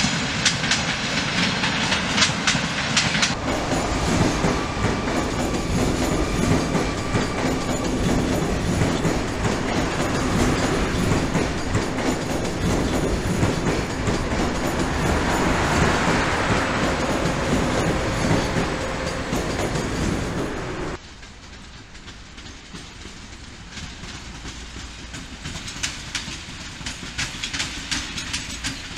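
Trains passing on the rails, one after another. First, passenger coaches clicking rhythmically over rail joints. From about 3 s in, a high-speed electric train goes by with a loud, steady rush and rumble. About 21 s in, the sound drops to a quieter electric multiple unit rolling past, its wheel clicks growing toward the end.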